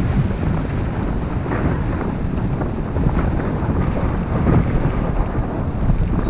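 Wind buffeting a GoPro's microphone while riding: a steady, loud low rumble that rises and falls in gusts.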